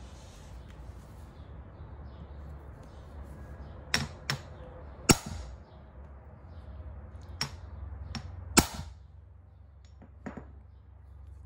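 A hammer striking a hand impact screwdriver to break loose a stuck Phillips screw on a dirt bike engine's crankcase half. About seven sharp knocks come irregularly, beginning a few seconds in, with two much louder blows in the middle.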